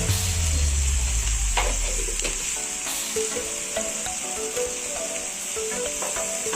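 Food sizzling as it fries in hot oil in a pan, a steady hiss with a few short knocks of a stirring spoon.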